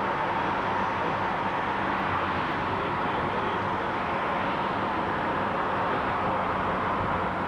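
Steady road and engine noise from inside a moving car's cabin.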